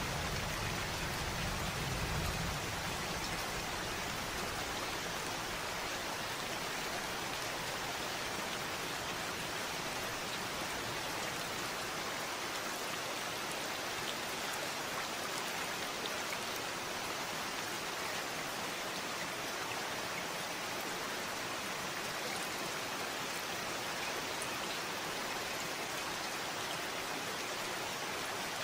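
Steady rain falling, an even hiss of drops. A low thunder rumble dies away in the first few seconds.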